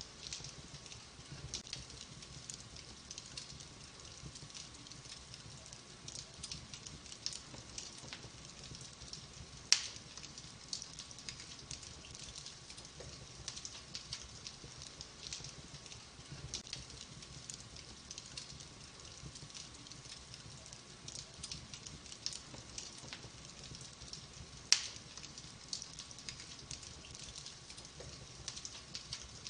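Wood fire burning in a fireplace, crackling steadily with many small pops and two much louder sharp snaps, about ten seconds in and near twenty-five seconds.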